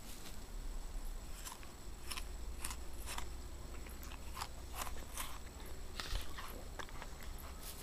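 Irregular, crisp crunches of an apple being bitten and chewed, over a low rumble.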